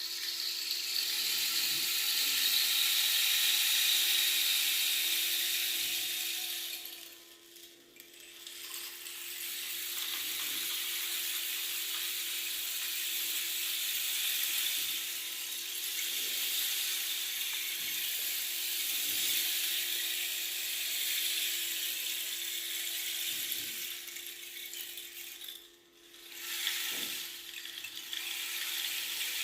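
Rain stick being tipped, its pellets trickling down inside in a continuous, even patter. The patter dies away twice, about eight seconds in and again near the end, and starts again each time as the stick is turned over.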